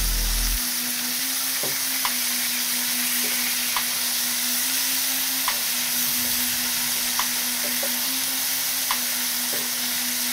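Onions, capsicum and sauces sizzling steadily in oil in a kadai while being stirred, with light sharp clicks of the spatula against the pan every second or two. A steady low hum runs underneath.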